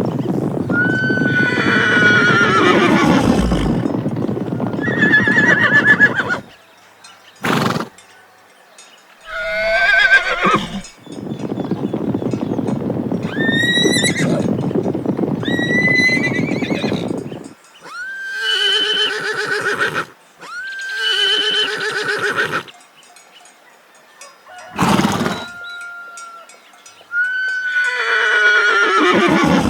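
Horses neighing, about nine separate whinnies, each starting high and falling away in a shaky tremolo, some long and some short. Rough, noisy stretches sit between the first few calls.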